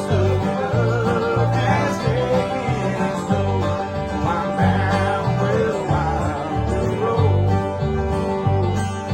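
Bluegrass band playing an up-tempo tune on banjo, acoustic guitars, fiddle and upright bass, with the bass notes keeping a steady beat under the melody.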